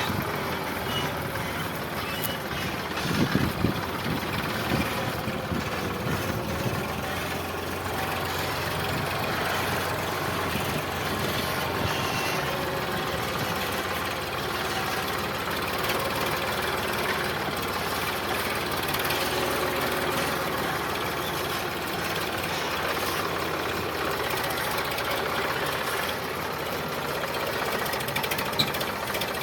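Sonalika DI 745 tractor's diesel engine running steadily while pulling a fully loaded trolley, with a few louder knocks about three seconds in.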